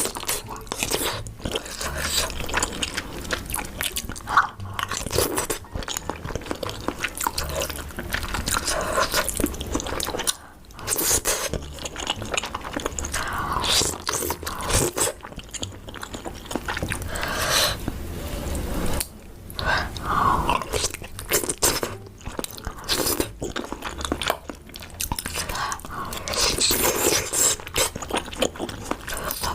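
Close-miked eating sounds: repeated biting and chewing with crunching, the mouth noises of a mukbang eater working through spicy food.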